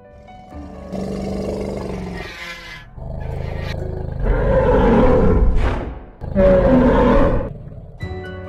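Two loud, rough roars, each a second or so long, about halfway through, preceded by softer noisy sounds.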